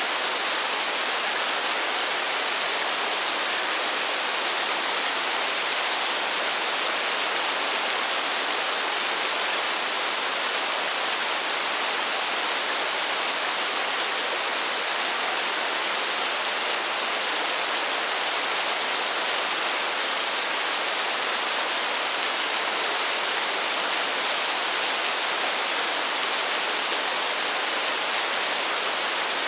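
Steady rain falling, an even hiss with no single drops or gaps standing out.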